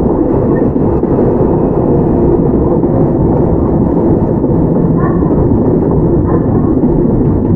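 Interior running noise of a Toyama Chihō Railway 17480 series electric train (ex-Tokyu 8090, field-chopper control): a steady loud rumble of wheels on the track, with a couple of brief faint squeals about five and six seconds in.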